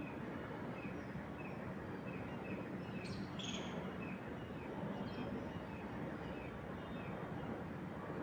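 Steady wind noise in trees, with a bird repeating a short chirp about twice a second and a louder, higher call from a bird about three seconds in.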